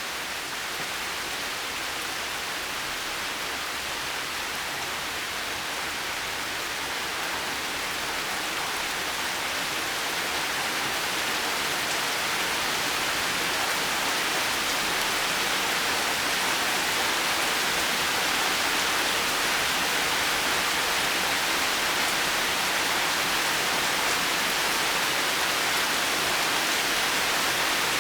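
Heavy rain falling steadily, an even hiss that grows a little louder over the first half and then holds.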